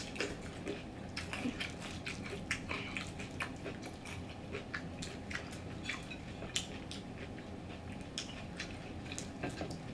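Close-miked eating of fried chicken: irregular wet chewing, crunches and lip-smacking clicks, several a second, over a steady low room hum.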